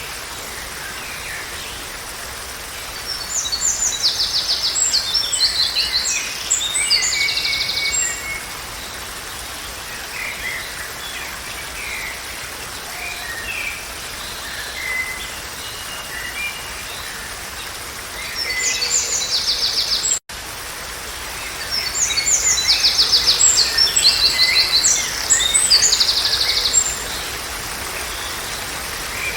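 Songbirds singing in fast, high trilled phrases, in two long spells with scattered shorter chirps between, over a steady background hiss.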